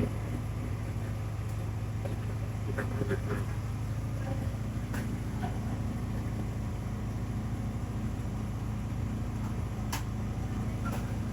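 A steady low engine hum, like a motor idling, with a couple of faint clicks.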